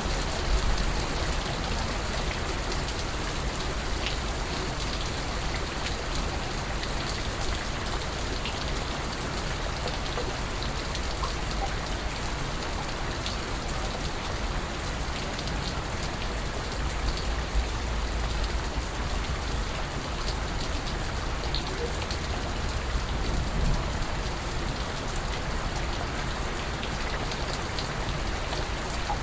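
Steady rain falling, a continuous even hiss with scattered individual drips and a low rumble underneath.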